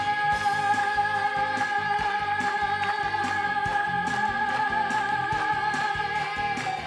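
A Vietnamese pop song ending on one long held sung note over band backing with a steady beat; the note stops near the end.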